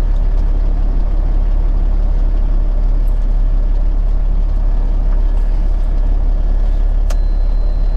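Peterbilt 379 semi truck's diesel engine running steadily, heard from inside the cab as a continuous low rumble.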